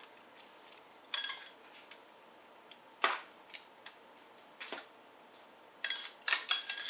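Kitchen utensils knocking and clinking against dishes: a few separate sharp knocks, then a quick run of clatters near the end, one ringing briefly.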